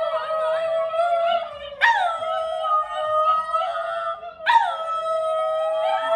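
A dog howling in long held notes. Each note begins with a quick jump in pitch, then settles and holds steady. A fresh howl starts about two seconds in and another about four and a half seconds in.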